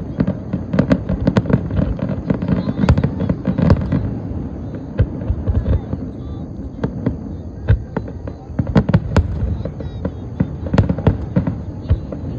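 Fireworks going off in quick succession: a rapid string of bangs and crackles over a continuous low rumble. They are densest in the first four seconds, ease a little, then pick up again in clusters around nine and eleven seconds.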